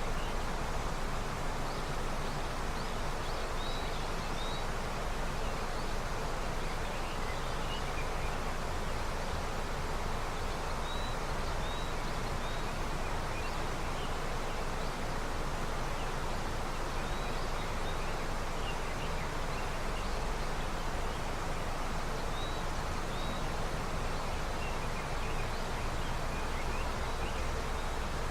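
A river in early snowmelt, its water running with a steady, even rush. Faint, short high chirps come and go over it.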